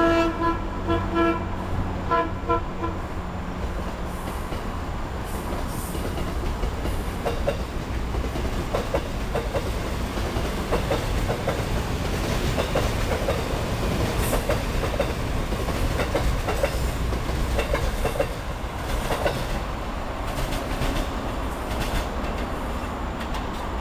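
Train horn sounding a few short blasts, then a Metro-North electric multiple-unit train passing close by, its wheels clacking rhythmically over rail joints with a steady rolling rumble.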